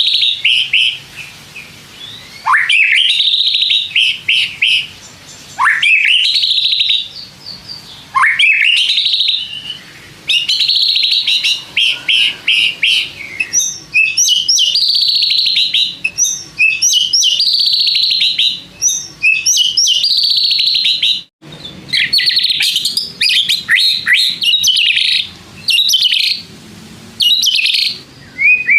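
White-rumped shama singing loudly in repeated phrases: at first rising whistled sweeps, then longer, fast trilled phrases with short pauses between them.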